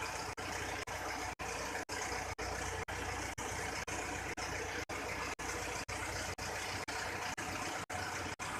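Mitsubishi Pajero engine idling after being remote-started from a phone app: a steady rushing noise with a low hum, cut by brief dropouts about twice a second.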